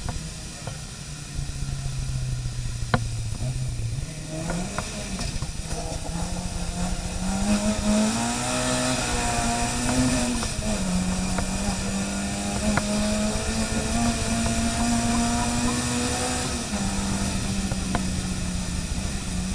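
Car engine running under way, its note low at first, climbing steadily for several seconds, then dropping sharply about ten seconds in and holding steady before stepping down again near the end.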